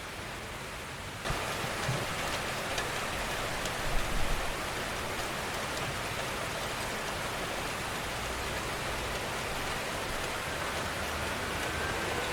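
Steady rain falling, an even hiss that suddenly gets louder and brighter about a second in, with a few sharper drop hits about four seconds in.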